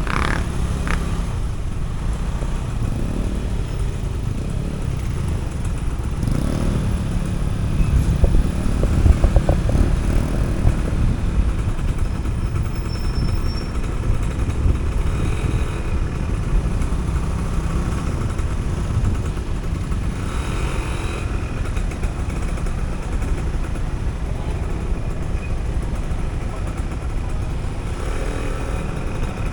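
Motorcycle on the move: engine running under steady wind and road noise, briefly a little louder about eight to ten seconds in.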